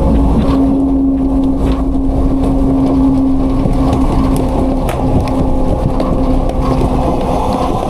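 Autocar-Heil front-load garbage truck running: a steady, loud diesel rumble with a constant droning hum over it, as the packer works the load, and a few light knocks.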